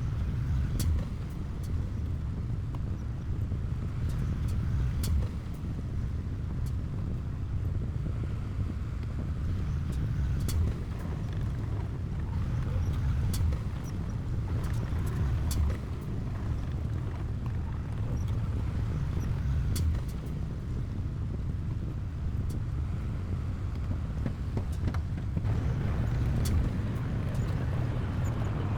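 Heavy diesel earthmoving machinery running steadily: a deep engine rumble with scattered sharp clicks and clanks.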